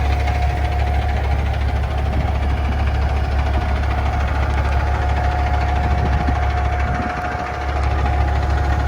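2014 Kenworth T800 CNG semi truck's natural-gas engine idling steadily: a strong low hum with a thin steady whine above it. It dips briefly about seven seconds in.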